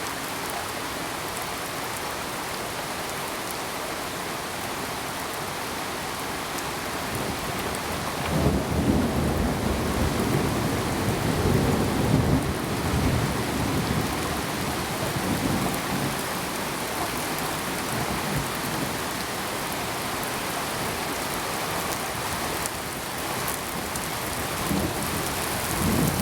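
Steady rain falling. About a third of the way in a long roll of thunder swells up and dies away over several seconds, and a shorter rumble follows near the end.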